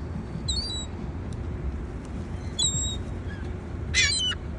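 Gulls calling: two faint short calls, then a louder one near the end, over a steady low background rumble.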